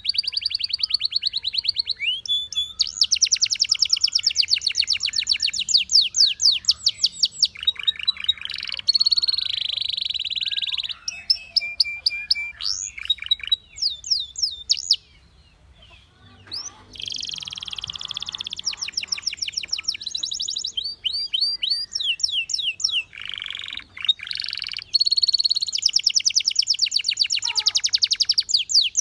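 Belgian canary singing a long, unbroken song of fast trills and rolls: rapid strings of repeated notes, some held on one pitch and some sweeping up and down. The song stops for about a second and a half just past the middle, then starts again.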